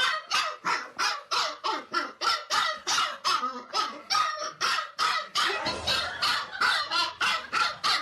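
An animal calling over and over in short, pitched cries, about three to four a second, steady and unbroken.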